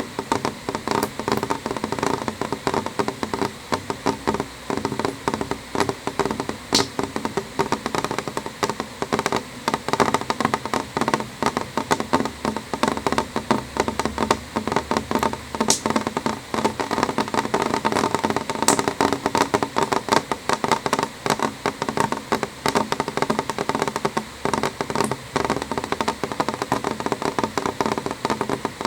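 Rain falling on a window pane: a steady, dense run of small drop taps, with a few sharper single clicks standing out.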